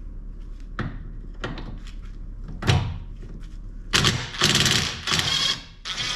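A few sharp metal knocks, then a power tool running in three short bursts from about four seconds in and then steadily near the end.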